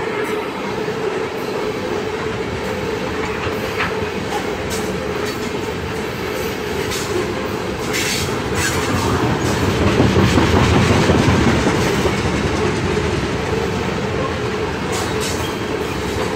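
Freight train of tank cars rolling past close by: a steady rumble of wheels on rail with scattered sharp clacks, swelling loudest about two-thirds of the way through.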